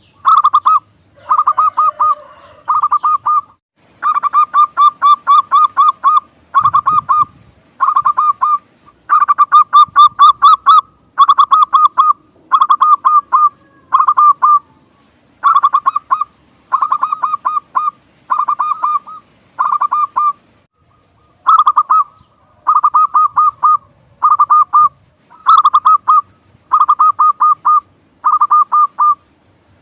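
Zebra dove (perkutut) calling: short bursts of rapid, staccato cooing notes, repeated over and over with brief gaps between them.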